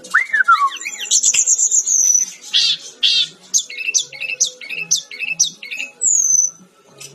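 Brown-chested jungle flycatcher singing a fast, varied string of high, quick downslurred whistled notes.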